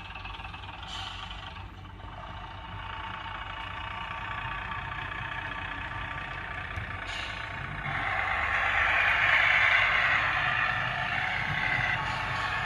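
Aftermarket DCC sound decoder in an OO gauge Bachmann Class 101 diesel multiple unit model, playing the railcar's diesel engine sound through the model's small speaker as it sets off. The engine note gets louder and revs up about eight seconds in. There are two short hissing bursts, about a second in and about seven seconds in.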